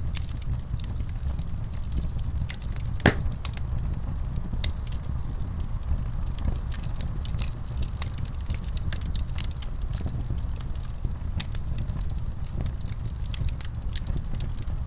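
Wood fire burning steadily with a low rumble and frequent small crackles and pops, one louder pop about three seconds in.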